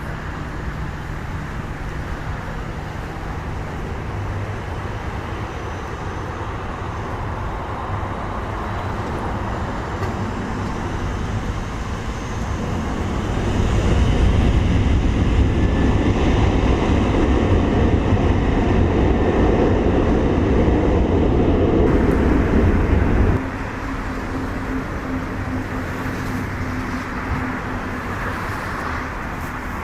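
Boeing 737-800's CFM56 jet engines at takeoff thrust, a steady rumble and hiss. It grows louder about 13 seconds in and drops suddenly about 23 seconds in.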